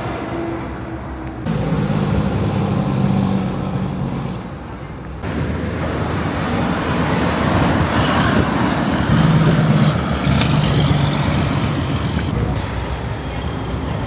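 Road traffic with heavy trucks: engine rumble and tyre noise from passing vehicles. The sound changes abruptly twice, in the first two seconds and about five seconds in.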